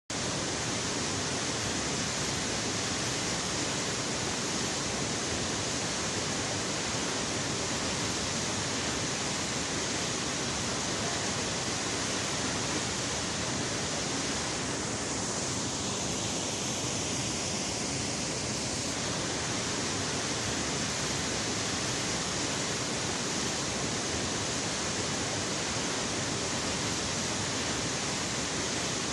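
Steady rush of a tall waterfall, water plunging about 64 m in a constant, unbroken wash of noise.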